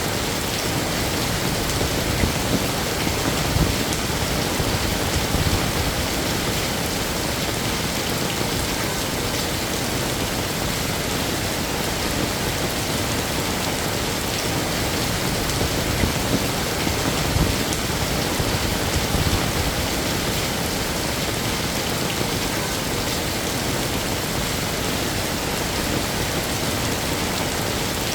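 Heavy rain falling steadily, a dense even hiss of drops on hard surfaces, with a few brief low swells in the sound.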